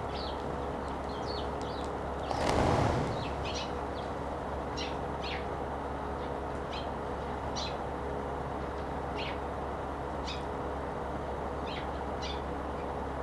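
Eurasian tree sparrows chirping: short, high, falling chirps scattered irregularly, over a steady low background hum. A brief loud rushing noise comes about two and a half seconds in.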